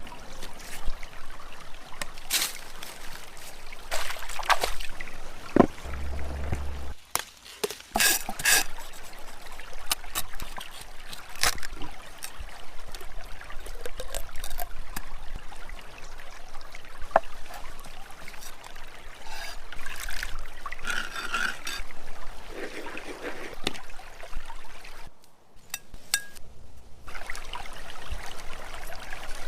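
Water trickling and running, with scattered sharp clicks and knocks; the sound drops away briefly twice.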